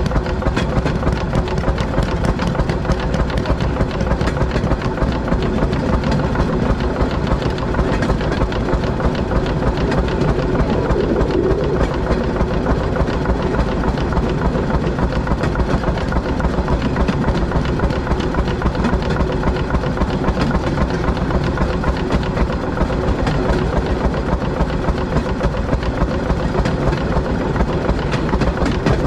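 Railroad speeder's small engine running steadily as the motorcar travels along the track.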